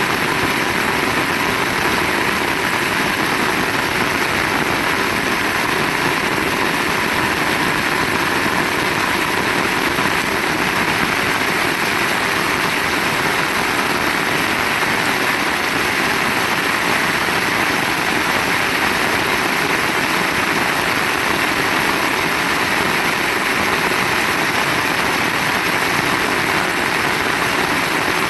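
Heavy rain pouring steadily, a dense unbroken hiss with no thunder claps.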